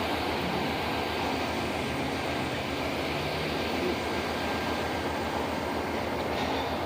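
A train rolling by, its wheels giving a steady rumble on the rails.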